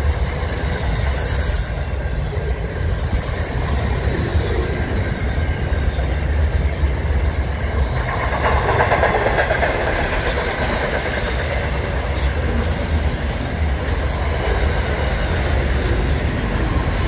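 Freight train's container wagons rolling past at speed: a steady low rumble of wheels on rail, swelling about halfway through, with a few short high-pitched wheel squeals.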